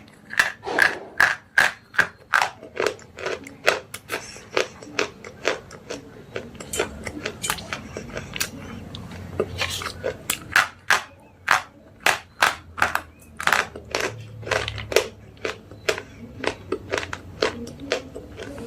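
Slate pencils being bitten and crunched: sharp, dry snaps in quick, irregular succession, about two to three a second.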